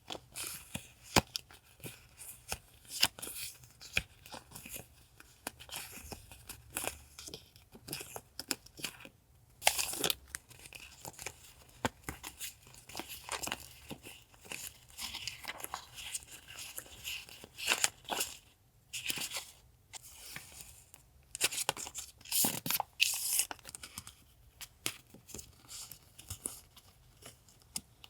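Paper and plastic sticker packaging being handled, crinkled and torn open, in many short, sharp rustles and clicks.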